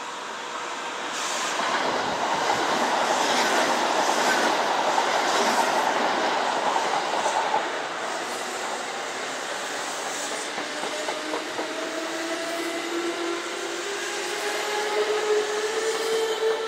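Kintetsu electric train running along the track, with wheels clattering over the rail joints, loudest in the first half. A whine then climbs steadily in pitch, as from traction motors of an accelerating electric train.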